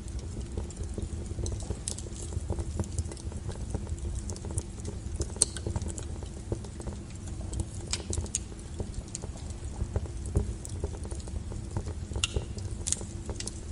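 Wood fire burning: a steady low rush of flame with frequent irregular crackles and pops from the burning firewood, one sharp pop about five seconds in and a cluster of louder pops near the end.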